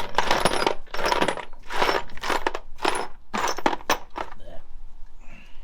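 Loose metal tools clinking and rattling in a series of quick bursts as someone rummages through them looking for an 8 mm tool, stopping about four and a half seconds in.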